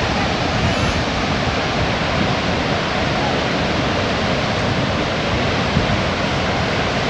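Waterfall: a steady, loud roar of falling water.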